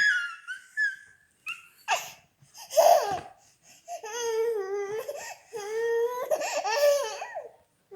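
A young child laughing and babbling in high-pitched squeals: short yelps in the first few seconds, then longer drawn-out wavering sounds in the second half.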